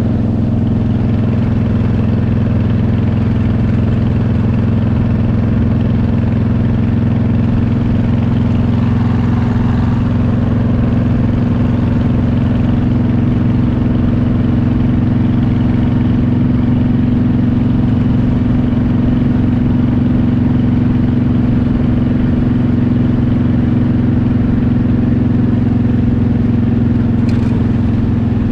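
Motorcycle engine running at a steady cruise, a constant drone that holds one pitch throughout.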